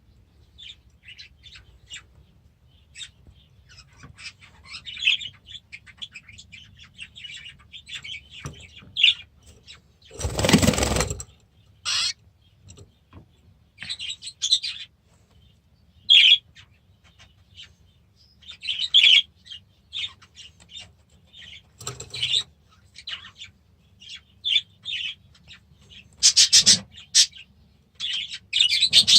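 Caged budgerigars and canaries chirping in short, scattered high calls, with wings flapping in a loud flurry about ten seconds in.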